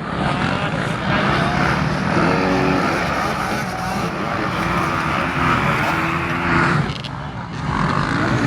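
Motocross dirt bike engines running and revving, the pitch rising and falling as the bikes accelerate and shift. The sound drops briefly about seven seconds in.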